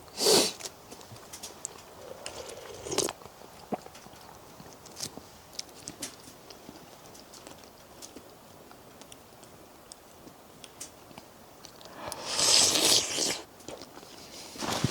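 A person eating pelmeni dumplings: chewing and biting, with small clicks of a spoon or bowl. There are brief louder noises near the start and about three seconds in, and a longer loud rustle about twelve seconds in.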